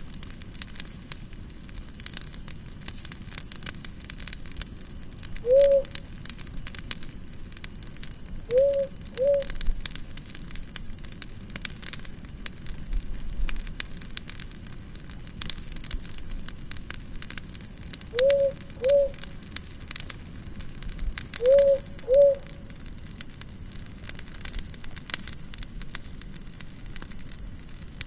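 Campfire crackling with steady pops and snaps, over crickets chirping in short high trills a few times. Short low calls from an animal sound seven times, singly and in pairs, louder than the fire.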